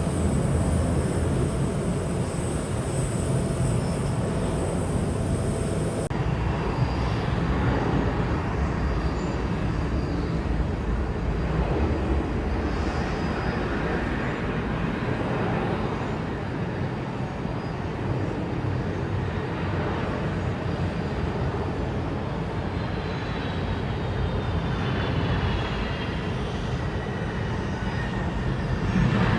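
Jet airliner engines running loud and steady, with a whine that falls in pitch near the end as the aircraft passes.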